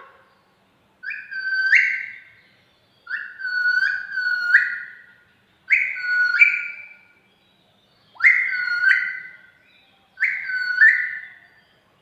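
A pet parrot whistling the same short phrase five times, each about a second long with a sudden jump up in pitch partway through.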